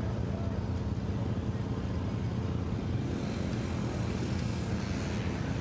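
Motocross bike engines running at a race track, with a higher engine note joining about three seconds in.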